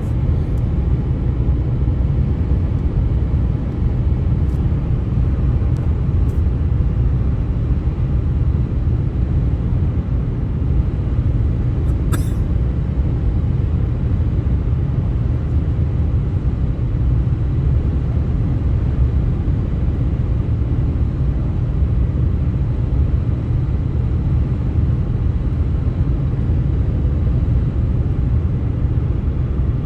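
Steady low rumble of highway road noise, unbroken throughout, with a single brief click about twelve seconds in.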